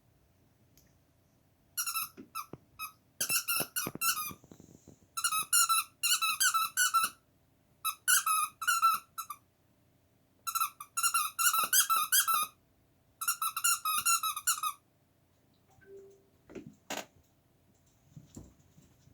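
Squeaky dog-shaped toy squeaked over and over by a Danish-Swedish Farmdog puppy biting it: runs of quick high squeaks, several a second, broken by short pauses, stopping a few seconds before the end, followed by a few faint taps.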